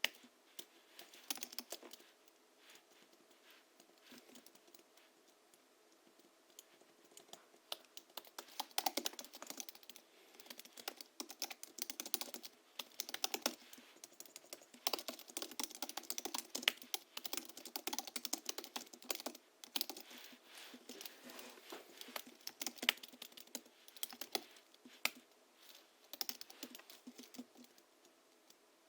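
Typing on a Hansung GHL-5X keyboard tuned with 50 g rubber domes, springs lubed with Krytox 103 and 107, and sound-absorbing sponge in the case: scattered keystrokes for the first several seconds, then fast, steady typing from about eight seconds in.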